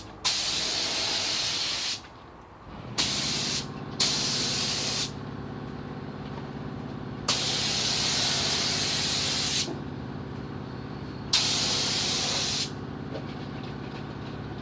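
DeVilbiss StartingLine HVLP spray gun spraying white base coat in bursts of hissing air, one burst per pass: five passes of half a second to a little over two seconds each, with short gaps between. A steady low hum comes in about three seconds in and runs on under the passes.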